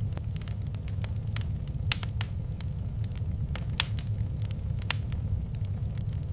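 Wood fire crackling in a fireplace: irregular sharp pops and snaps, a few louder ones about two, four and five seconds in, over a steady low rumble.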